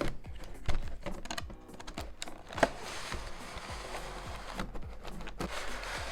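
Hands handling a cardboard Pokémon card collection box: a run of light taps and clicks, two sharper knocks, and a stretch of rustling about three seconds in, over soft background music.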